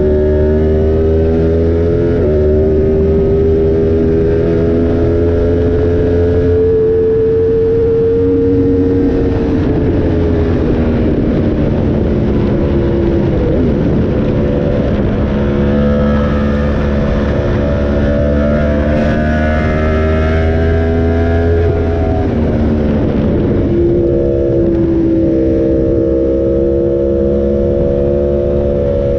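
Yamaha YZF-R1M's crossplane inline-four running through an SC Project exhaust, heard onboard while riding. The engine holds steady revs for several seconds at a time, shifts in pitch a few times, and falls in pitch about three quarters of the way through as the bike slows.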